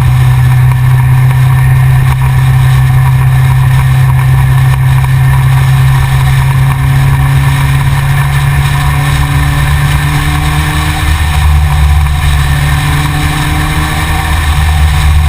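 Yamaha XJR motorcycle's inline-four engine running steadily at a constant pitch.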